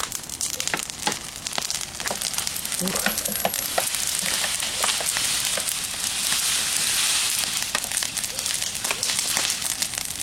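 Bonfire of garden branches burning, with sharp crackling pops throughout and a hissing rush that swells in the middle.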